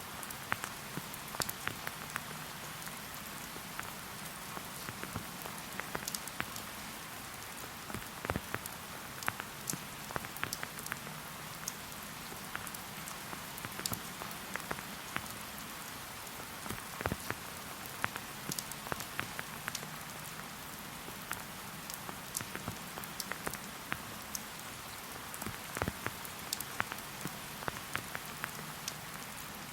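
Steady rain falling in a forest: an even hiss with many separate drops ticking throughout.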